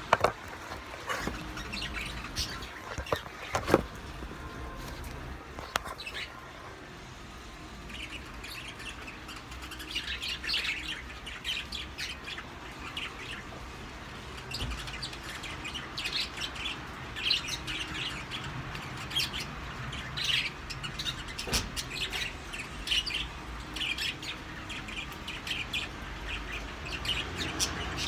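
Small birds chirping over and over, with a few sharp knocks in the first few seconds.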